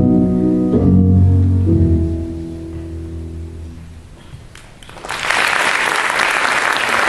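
The dance track's final held chords, low piano and strings, fade out, and about five seconds in an audience breaks into applause.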